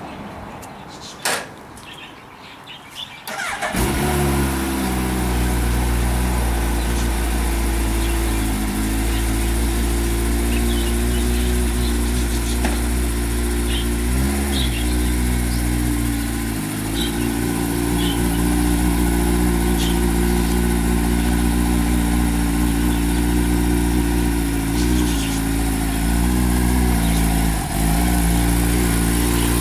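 A single click, then about four seconds in a 5000 cc Rolls-Royce Merlin V-twin motorcycle engine fires up. It settles into a steady, deep idle, and its revs waver briefly a few times.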